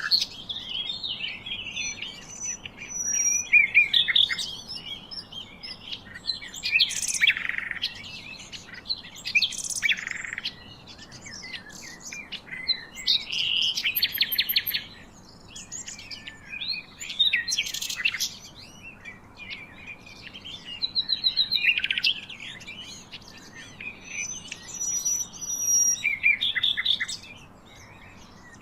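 Several birds chirping and singing together, with overlapping trills, rapid chirp series and short high whistles, over a faint steady hiss.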